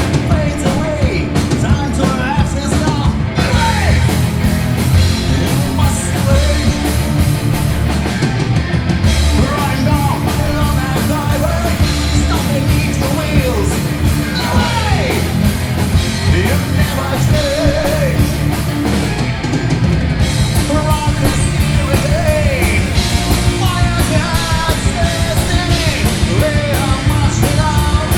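Rock band playing a loud, driving rock song, with a singer's voice over the band.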